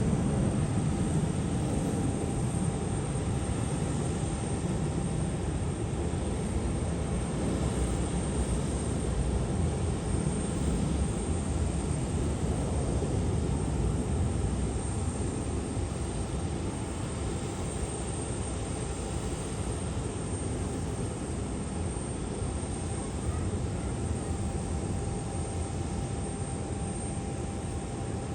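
Aircraft engine noise: a steady rumble with a faint steady whine, slowly getting quieter.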